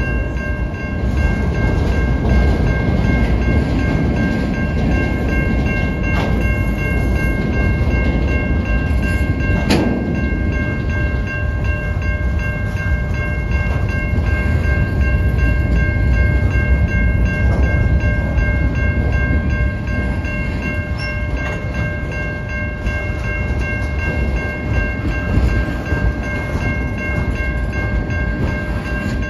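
Freight cars of a passing freight train rolling by close up: a steady heavy rumble of wheels on rail, with a steady high-pitched squeal held over it and one sharp clank about ten seconds in.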